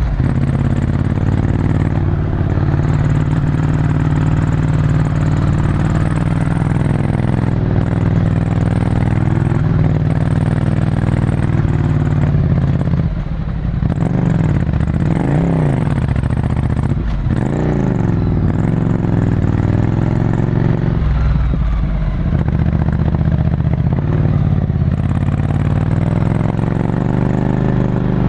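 Ducati Scrambler Desert Sled's air-cooled L-twin with a full Termignoni exhaust, heard onboard while riding. Its revs hold fairly steady, drop briefly about halfway through, then rise and fall a few times before settling again.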